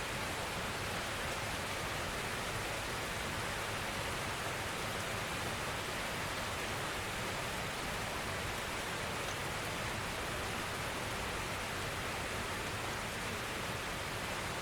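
Steady gentle rainfall: an even hiss without distinct drops, holding the same level throughout.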